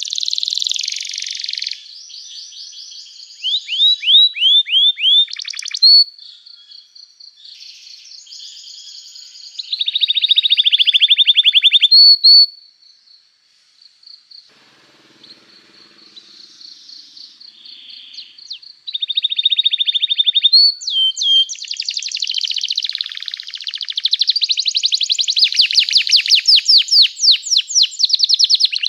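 Domestic canary in full song: long runs of rapid, high trills and rolls of repeated notes. A quieter stretch in the middle has a thin held whistle under short phrases, and loud fast trilling comes back for the last third.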